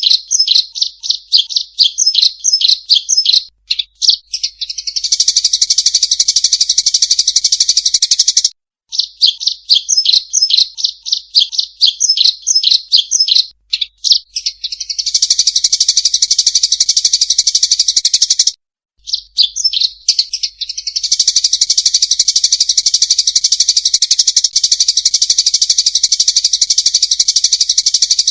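Eurasian tree sparrows giving agitated fighting calls. Runs of quick sharp chirps, several a second, break into long bursts of dense rapid chattering, and this happens three times with brief pauses between.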